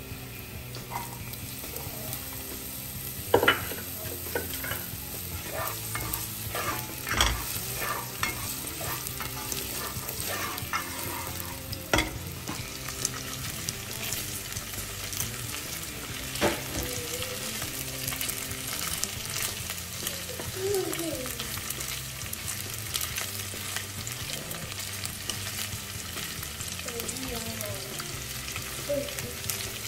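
Garlic, onion and ground-pork meatballs sizzling in oil in a nonstick saucepan as they are lightly fried, with a spatula stirring and a few sharp knocks against the pan.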